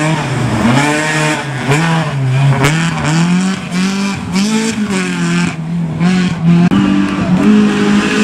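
Rally car engine revving up and down over and over, the pitch swinging every half second or so, with bursts of tyre noise as the car slides.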